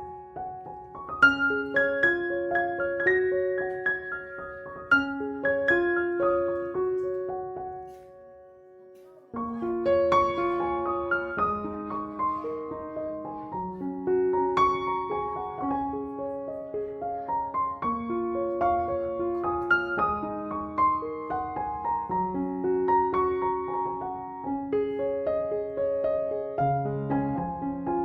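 Background piano music playing melodic notes. It fades almost to silence about eight seconds in, then starts again about a second later.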